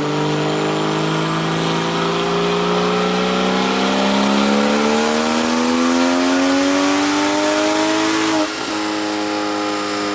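BMW 335i N54 inline-six with a single turbo conversion making a wide-open-throttle dyno pull. The revs climb steadily for about eight seconds, then drop suddenly as the throttle closes, and the engine settles into a steady lower drone.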